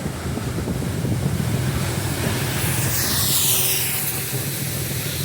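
Diesel-hauled passenger train running past: a steady low rumble of the locomotive and carriages on the rails, with a high squeal that falls in pitch about three seconds in.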